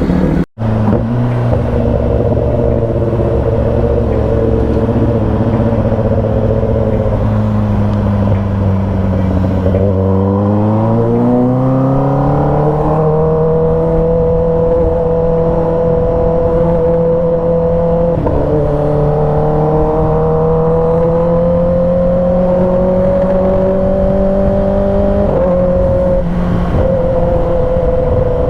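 Kawasaki ZX-10R's inline-four engine running under way, its pitch climbing steadily from about ten seconds in, with small dips and recoveries near eighteen and twenty-five seconds, as at gear changes. The sound cuts out for an instant about half a second in.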